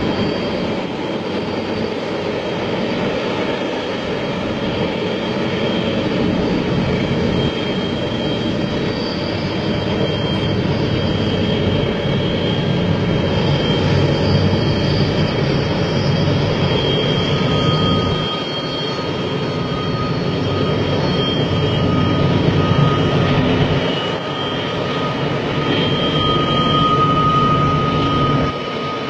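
Freight train running: a loud, steady rumble with thin high tones coming and going over it.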